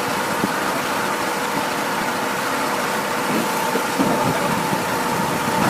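A heavy vehicle's engine running steadily, with a faint constant whine over a noisy rumble and a few low thuds in the last couple of seconds.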